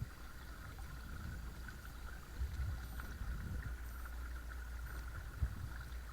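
Watersnake T24 12-volt electric trolling motor pushing a kayak, running steadily with a thin high hum over a low rumble of water along the hull. A couple of soft thumps break in, one about two and a half seconds in and one near the end.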